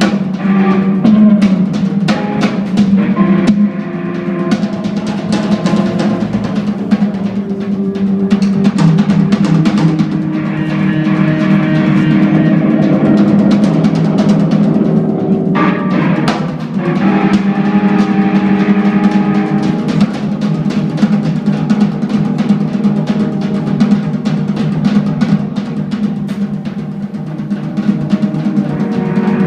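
Live instrumental jazz-rock from an organ, bass and drums trio. Busy drum-kit playing with many cymbal and drum hits runs over held keyboard and bass notes.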